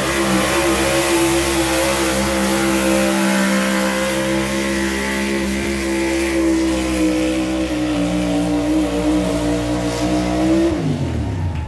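Pulling truck's engine held at high revs under load as it drags the sled down the track, then the revs drop off sharply near the end.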